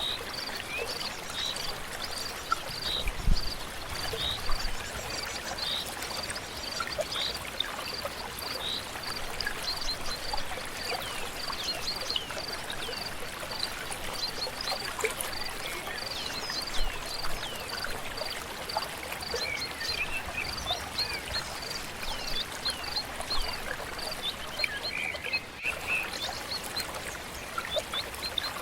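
A stream flowing steadily under birdsong: many short, falling chirps, with a high note repeated about twice a second that stops near the end. A soft low thump comes about three seconds in.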